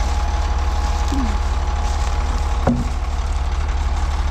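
Heavy truck engine idling with a steady low, even throb. There is one brief knock about two and a half seconds in.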